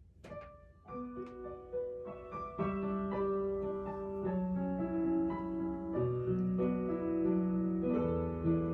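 Piano introduction to a slow ballad: soft chords that build gently over the first couple of seconds, then a steady flow of sustained notes.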